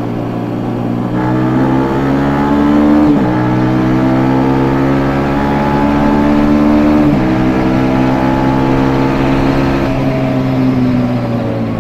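Yamaha Jupiter MX 150's single-cylinder engine through its stock exhaust, accelerating under way and shifting up twice. The engine note climbs, drops sharply about three and about seven seconds in, and climbs again after each drop. It sinks slowly as the throttle eases off near the end.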